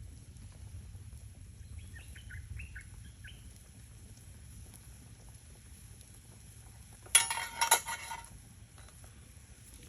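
A few quick bird chirps over a low steady rumble, then about seven seconds in a loud rattling clatter lasting about a second.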